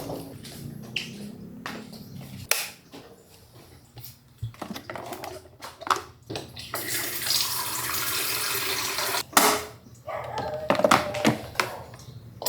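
A water tap running for about two and a half seconds and then shut off, with scattered clicks and knocks of things being handled before and after.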